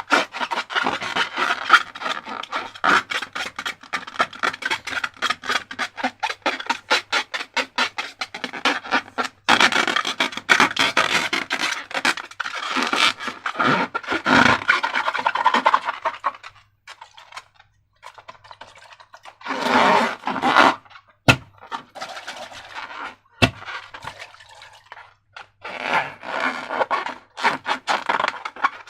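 Sticky slime being squeezed and worked by hand, giving dense, rapid crackling and scraping that comes in several bursts with short pauses between them.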